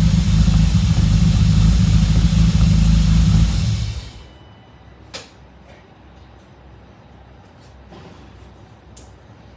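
BMW E34 Touring's S52 straight-six idling steadily at the exhaust, then switched off, dying away about four seconds in. Two short sharp clicks follow in the quiet.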